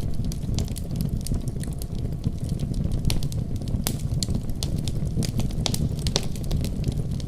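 Wood fire crackling in a fireplace, with irregular sharp pops and snaps, over a steady deep rumble of a heavy snowstorm.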